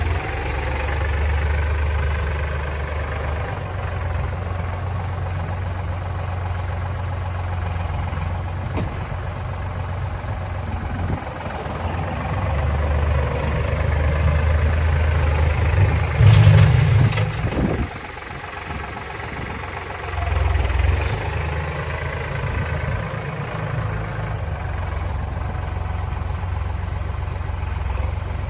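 Kioti DK65 tractor's diesel engine running steadily, its sound swelling about twelve seconds in to a loud peak, then dropping off suddenly and settling back to a steady run.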